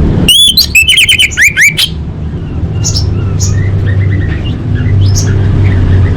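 Female orange-headed thrush calling: a quick run of loud, sweeping whistled notes in the first two seconds, then softer scattered chirps. A steady low hum runs underneath.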